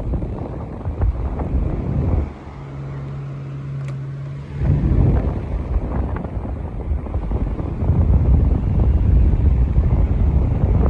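Britania Turbo 400 table fan running, its airflow buffeting the microphone with a rumbling rush. For about two seconds, a couple of seconds in, the rush drops away and leaves a steady low motor hum, then returns, stronger from about eight seconds on.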